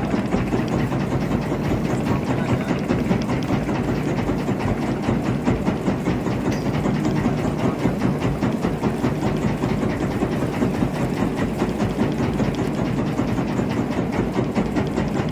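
Boat engine running steadily at an even speed, with a continuous rapid pulsing and no change in pitch.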